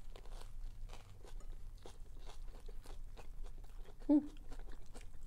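Close-miked biting and chewing of soft tortilla wraps stuffed with crisp lettuce and red cabbage: a run of small wet crunches. About four seconds in comes a short hummed "mm" from one of the eaters.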